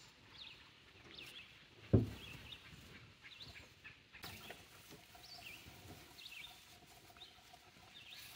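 Songbirds chirping repeatedly in the surrounding trees, with a single sharp thump about two seconds in.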